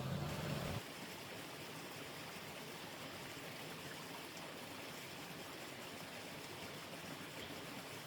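Steady hiss of running water, with a low rumble underneath that cuts off suddenly under a second in.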